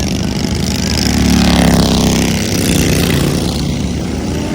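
An engine-driven vehicle passing close by: its engine note swells and then drops in pitch as it goes past, loudest about halfway through.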